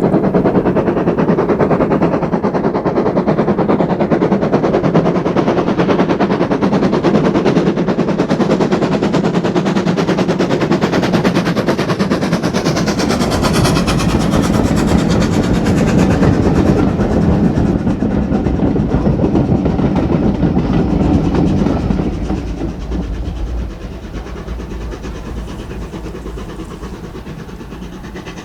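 Steam locomotive hauling a train past at speed, its exhaust beating rapidly under the run of the carriages on the rails. The sound fades as it moves away near the end.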